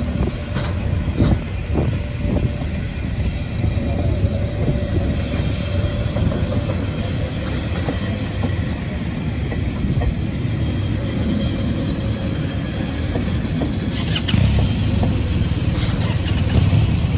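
Metre-gauge Matterhorn Gotthard Bahn passenger coaches rolling past close by: a steady rumble of wheels on rail with occasional clicks and knocks, busier in the last few seconds.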